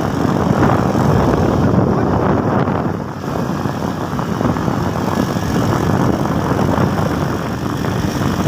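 Motorcycle running on the road with dense, steady ride noise, dipping briefly about three seconds in.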